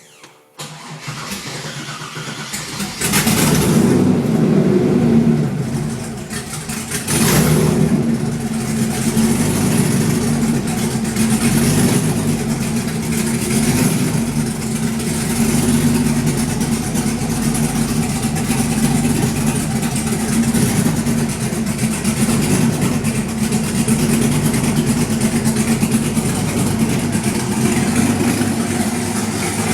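LS1 5.7-litre V8 in a 1968 Camaro turning over and catching about three seconds in, given two bursts of throttle, then settling into a steady idle. The owner says it starts rough and idles rough while it is still learning to idle after the swap.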